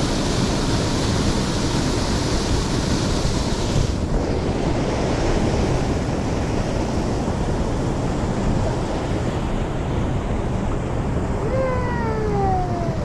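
Steady rush of a mountain stream mixed with wind on the microphone; the hiss turns duller about four seconds in. Near the end comes one drawn-out call, falling in pitch.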